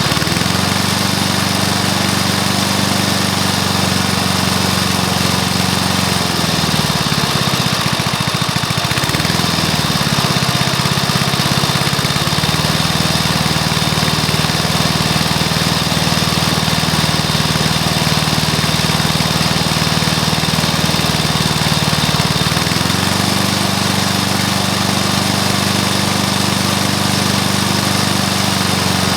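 Freshly rebuilt Briggs & Stratton lawnmower engine, fitted with a new piston, rings and valves, running steadily. Its speed sags sharply about seven seconds in, picks back up around twelve seconds, and rises again a little past twenty-two seconds.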